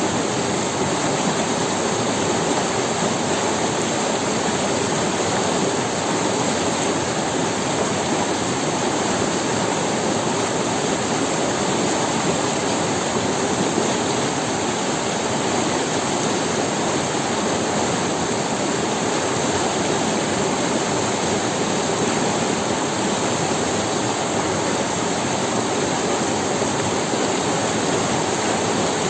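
A river rushing and splashing over stones, a steady, even wash of water noise with no breaks.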